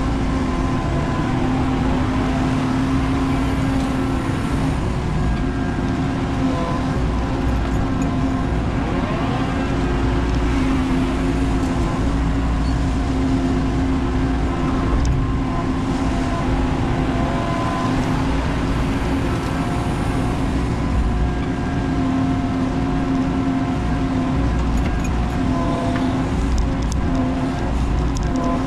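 Menzi Muck spider excavator's diesel engine running steadily under work, with fainter tones that rise and fall now and then as the machine is operated.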